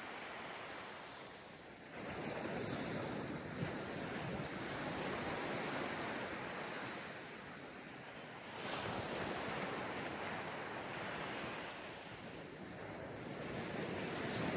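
Ocean waves breaking on a sandy beach, the surf swelling and easing in repeated surges, one rising at the start of each new wash about every six seconds. Some wind noise on the microphone.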